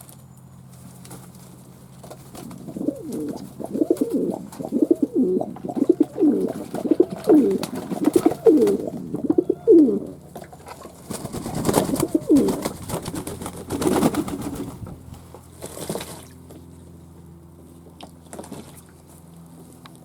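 Fantail pigeons cooing: a run of repeated coos from about three seconds in to about ten seconds, then several louder, rougher bursts between about eleven and sixteen seconds, dying down near the end.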